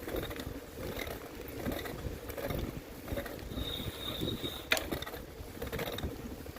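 Bicycle rattling and clicking as it is ridden over a rough surface, over a low rumble. A brief high squeal comes about three and a half seconds in, and a single sharp click follows just before five seconds.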